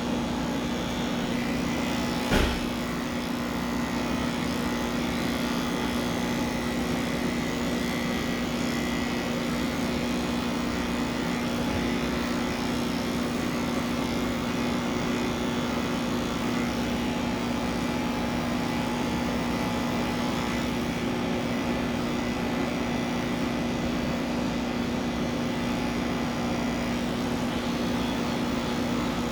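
Electric pet clippers running with a steady hum during a cat shave-down, with one sharp click about two seconds in.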